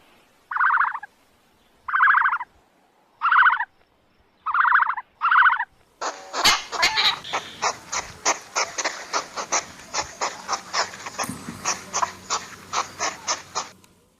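Animal calls: five short pitched calls, each about half a second long, then from about six seconds in a rapid run of sharp, clicky calls, about three a second.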